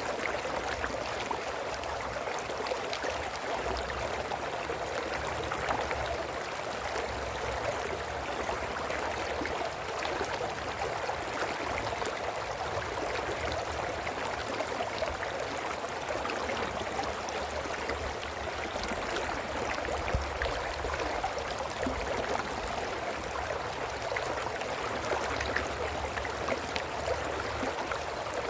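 A small brook running over stones: a steady babbling and trickling of water.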